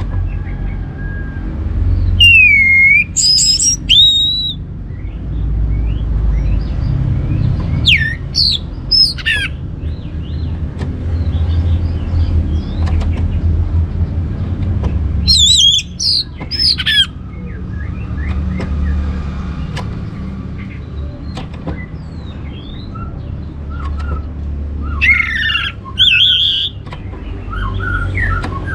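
Orange-headed thrush singing in short loud bursts of rapid, sliding whistled phrases, with softer notes between the bursts, over a steady low rumble.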